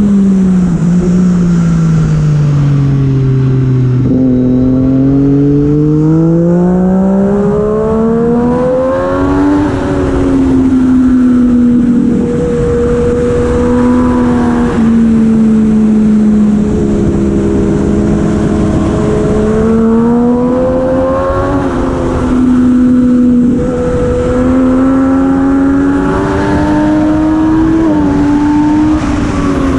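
Racing superbike engine at high revs, heard from on board: the pitch falls over the first four seconds as it slows, climbs for about five seconds as it accelerates, then holds high with several short dips and rises through the rest of the lap.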